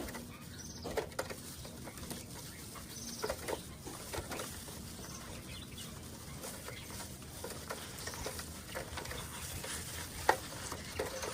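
Caged birds giving faint, scattered chirps among light clicks and knocks, with one sharper knock near the end.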